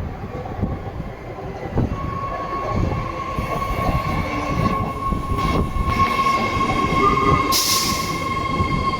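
BART train coming into the station, its wheels rumbling on the rails. A steady high whine starts about two seconds in, and there is a brief hiss near the end.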